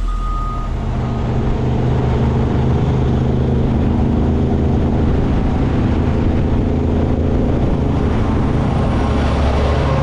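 A large vehicle engine running steadily, with a reversing alarm beeping briefly at the start and stopping about a second in.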